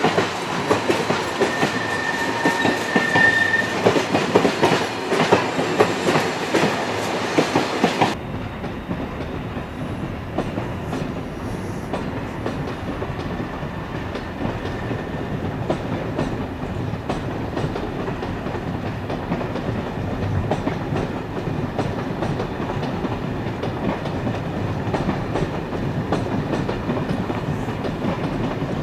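Passenger coaches rolling past close by, wheels clicking over rail joints and points, with a brief squeal about two seconds in. About eight seconds in the sound drops to a quieter, more distant train moving slowly through the station, with faint regular wheel clicks.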